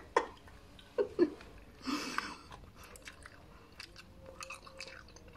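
Crunching bites and chewing of dry, crisp biskotso (twice-baked toasted bread). A few sharp crunches come in the first second or so, followed by quieter crackly chewing.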